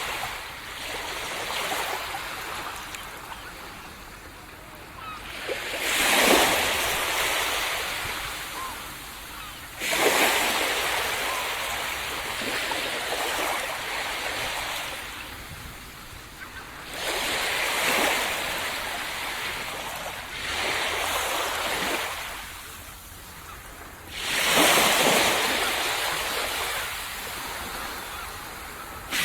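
Sea waves breaking on a sandy beach and washing up the shore, four fresh surges a few seconds apart, each easing off into a fading hiss.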